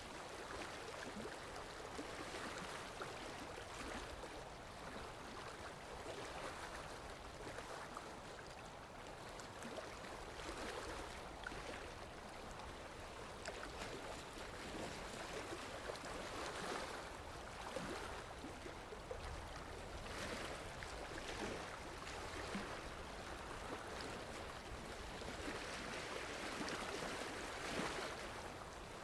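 Running water, a stream flowing steadily with small swells in level.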